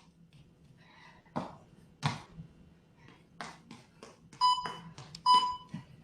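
Interval timer counting down the end of a work period with three short electronic beeps about a second apart, starting past the middle. Before them come scattered thuds of feet landing on the floor during squat thrusts and high knees.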